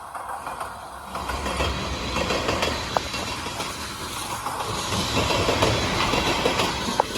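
Freight train cars rolling past, wheels clicking over the rail joints with a steady rumble that grows louder about a second in.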